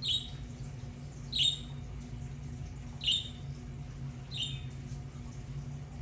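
Budgerigar giving four short, sharp chirping calls, spaced about a second and a half apart, over a steady low hum.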